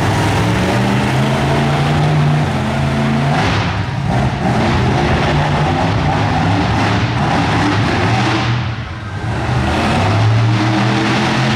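Monster truck engine running hard and revving, its pitch rising and falling, with a short dip in loudness about three quarters of the way through.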